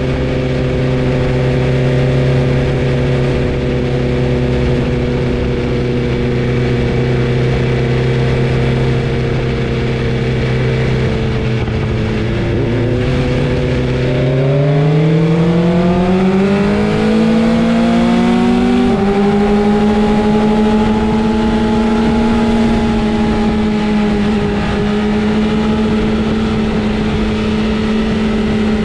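Inline-four sport motorcycle engine running at steady revs. About halfway through it revs up smoothly, then holds a higher, steady note.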